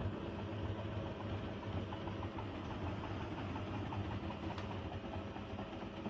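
Siemens washing machine running with a steady low hum and a light rattle.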